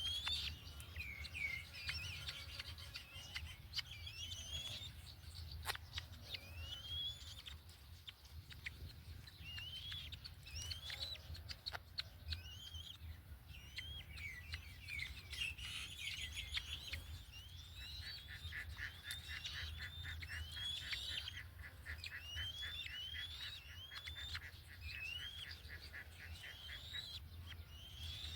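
Birds chirping: short rising whistled chirps repeated every second or two. A fast, even trill of rapid pulses joins a little past halfway and stops near the end, over a steady low rumble.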